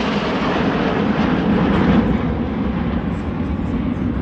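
A jet aircraft flying past in a display, its engine noise dense and steady at first, then losing its high end in the second half as it draws away.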